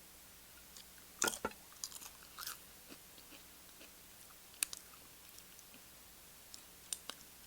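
A person biting into and chewing tortilla chips: sharp, crisp crunches, the loudest a quick cluster just over a second in, then scattered smaller crunches.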